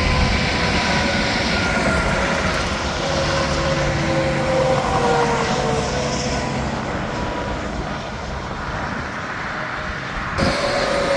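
Interstate traffic with semi-trucks passing at highway speed: a steady rush of tyre noise with whines that slowly fall in pitch as the vehicles go by.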